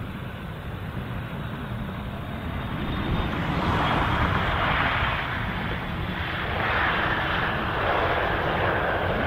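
Jet airliner passing, its engine roar building about three seconds in and staying loud, with a faint high whine in the noise near the end.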